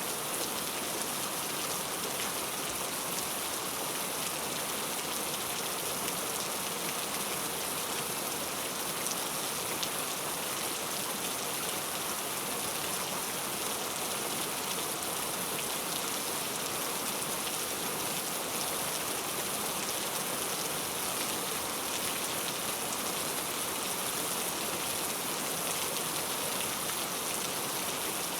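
Heavy rain falling steadily, a dense even hiss with scattered drop patter and no letup.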